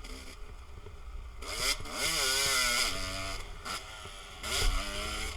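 250 dirt bike engine revving as it is ridden round a motocross track: the pitch climbs about a second and a half in, holds high under a rush of wind noise, drops back, then climbs again near the end.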